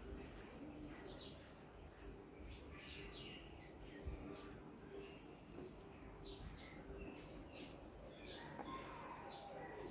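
Small birds chirping, faint, in a steady series of short, high chirps that slide downward in pitch, a few each second, over low background noise. A brief low thump sounds about four seconds in.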